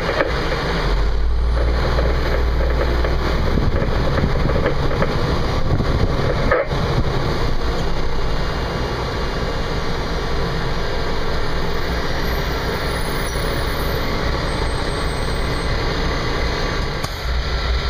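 Fire engine running steadily with a heavy low rumble.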